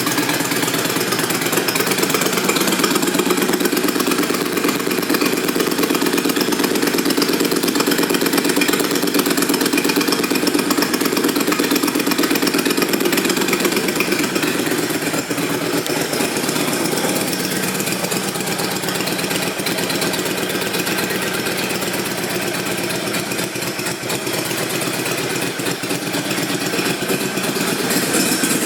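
Honda VTX1300 V-twin motorcycle engine idling steadily through its exhaust, which the presenter thinks has had its baffles removed.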